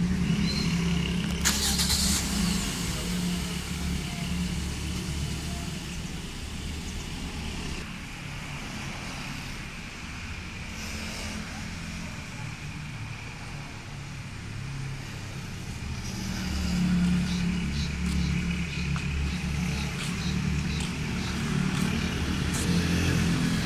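Toyota Corolla Altis 1.6 engine running at low speed as the car is driven slowly forward. The low hum grows louder about sixteen seconds in and again near the end.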